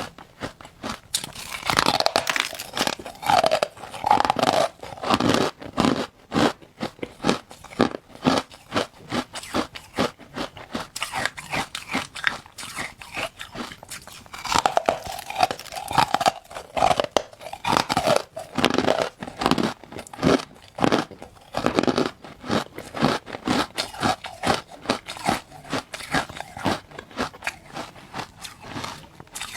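Close-up biting and chewing of hard carbonated ice: dense, irregular crunching and crackling clicks. There are two louder spells of biting, one starting about two seconds in and one about fifteen seconds in.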